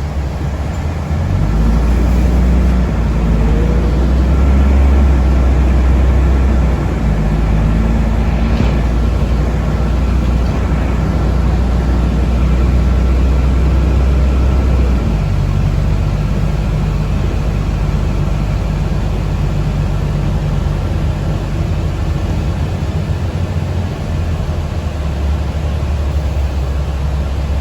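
Cabin noise of a moving city bus: a steady low rumble of drivetrain and road, whose low tones shift about halfway through.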